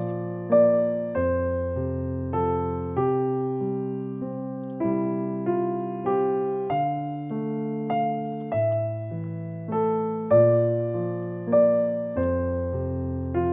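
Background music: a gentle electric piano melody over held bass notes, with notes struck about every half second.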